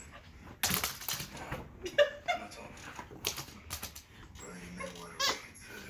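Dog making a series of short, sharp noisy breaths or snorts with a couple of brief whines, as it vocalises back instead of fetching.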